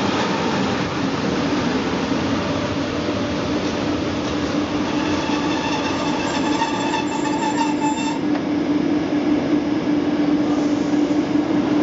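Montreux-Oberland Bernois narrow-gauge train running with a steady rumble and a low hum. About halfway through a high squeal joins in and cuts off suddenly.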